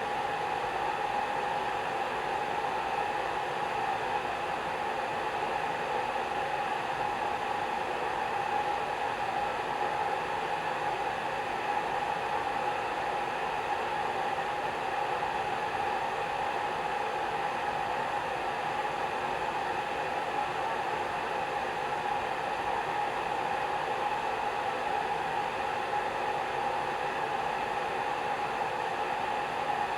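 Hair dryer running steadily: an even blowing hiss with a constant hum-like tone in it.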